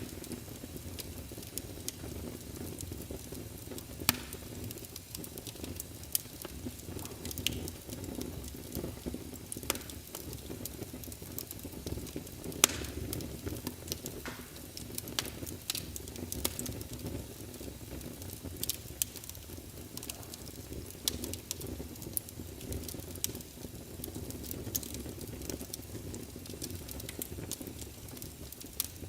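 Crackling fireplace fire: a steady low rumble of flames with scattered sharp pops and crackles, the loudest about 4 and 12.5 seconds in.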